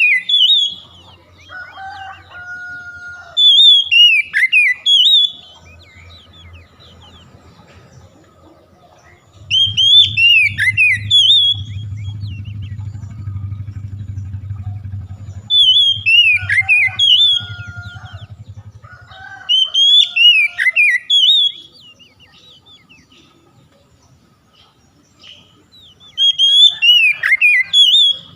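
Oriental magpie-robin (kacer) singing loud, sharp whistled phrases of quickly sweeping notes, six bursts a few seconds apart. A faint low hum runs beneath the song through the middle.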